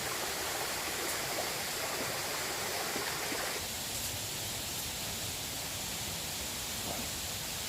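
Steady rushing water noise from a river or stream, or rain, with no distinct events. About three and a half seconds in, the sound changes abruptly and becomes thinner and slightly quieter.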